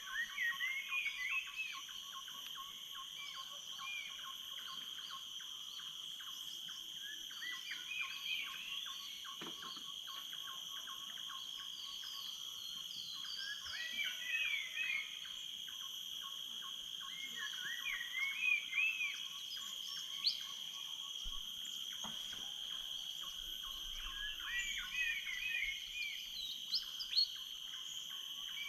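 Tropical rainforest dawn chorus: insects keep up steady, shrill high-pitched tones throughout, under a dense fine ticking. A bird sings short phrases of quick up-and-down whistled notes, repeated about every five or six seconds.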